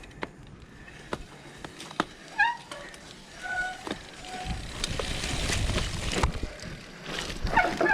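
Mountain bike ridden over a wet, muddy trail: scattered clicks and rattles from the bike, then a rushing swell of noise with a low rumble for about two seconds midway.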